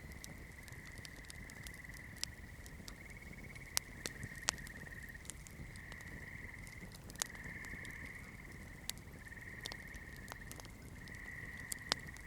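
Wood campfire crackling: sharp pops and snaps scattered irregularly over a low steady rush of the burning fire. A steady high trill runs underneath.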